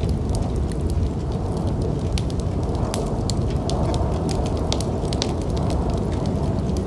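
Wood fire crackling, with frequent sharp pops over a steady low rumble of snowstorm wind.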